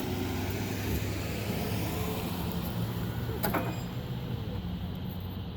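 A car engine running steadily at low speed, with a sharp click and a short squeak about three and a half seconds in.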